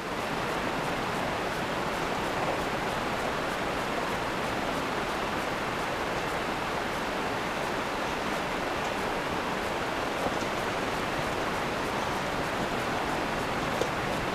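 Steady, even rushing noise of storm wind outdoors, with no engine or voice in it.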